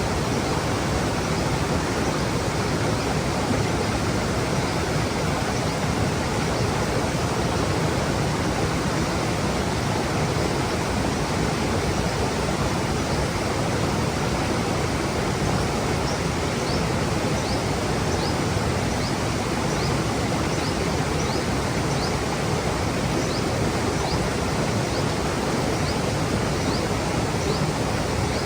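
Mountain stream running over rocks, a steady rushing of water. From about halfway through, a bird gives a run of short high chirps, roughly one or two a second.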